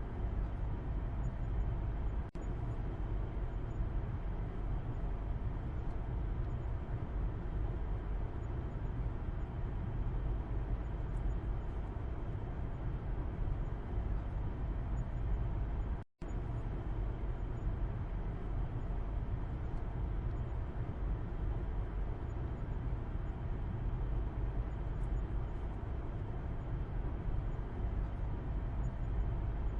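Steady low road and engine rumble inside a moving car's cabin, as heard from the back seat. The sound cuts out for a split second just past halfway, then resumes unchanged.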